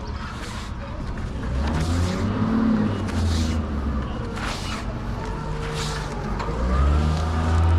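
A heavy vehicle engine running nearby, a steady low hum whose pitch rises and falls as it revs and moves, growing louder about a second and a half in and again near the end. Short rustles come roughly once a second over it.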